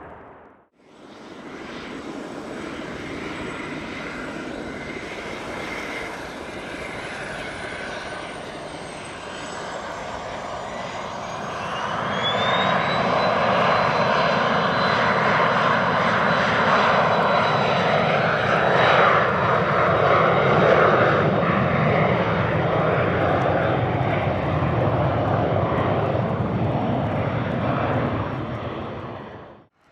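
Embraer Phenom 300E twin-turbofan business jet landing, its engines' jet noise and high whine growing louder about twelve seconds in. A high-pitched tone rises and then holds steady through the loudest part.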